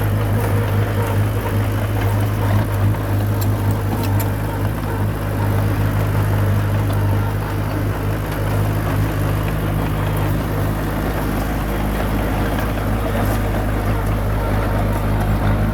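Komatsu bulldozer's diesel engine running steadily at an even pitch, with a few faint clicks over it.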